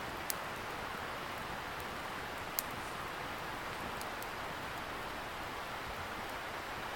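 Wood campfire crackling, with two sharper pops and a few lighter ticks over a steady hiss of distant river water.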